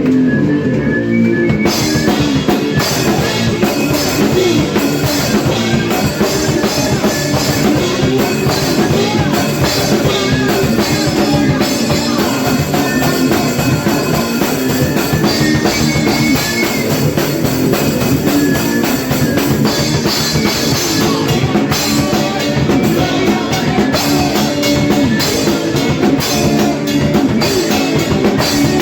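Hardcore punk band playing an 80s-style riff on distorted electric guitar and bass with a full drum kit; the drums and cymbals crash in about two seconds in and drive on at a fast, steady pace.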